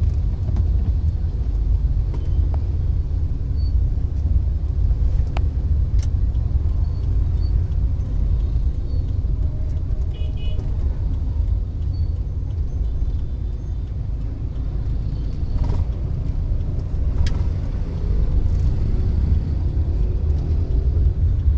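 Dense motorbike street traffic: a steady low rumble of many small engines passing, with a brief high beep about ten seconds in.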